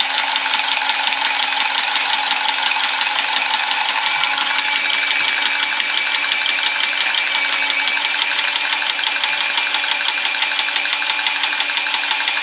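Power saw cutting through Type L copper pipe, the thicker-walled kind that is harder to cut, with a fresh blade. It runs steadily with a fast, even rhythm and a high whine that strengthens about four seconds in.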